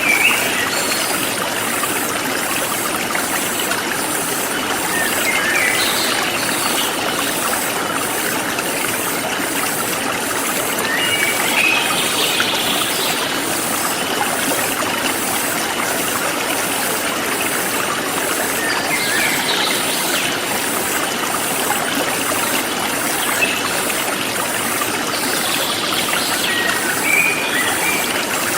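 Forest stream flowing steadily, with a high insect chirping in an even, fast pulse and a bird giving five short calls spread through.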